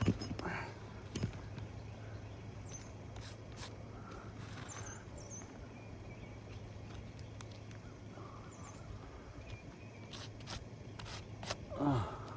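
Scattered taps, clicks and scrapes of a hand tool prying and unsealing asphalt shingles on a roof, over a steady low hum, with a louder scuffle near the end.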